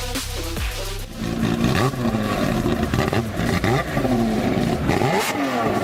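Music for about the first second, then a car engine revved again and again through its exhaust, its pitch climbing and dropping in quick, overlapping blips.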